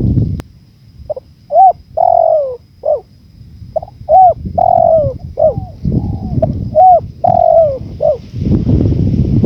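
Spotted dove (tekukur) cooing: three repeated phrases of short coos with one longer, drawn-out coo in each. Low wind rumble underneath, swelling near the end.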